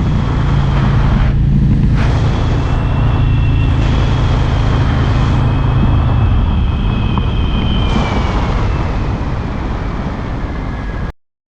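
Harley-Davidson Road King's air-cooled V-twin engine running steadily at road speed, with wind and road noise and a faint high whistle that slowly falls in pitch. The engine note becomes less even and a little quieter in the second half, and the sound cuts off abruptly near the end.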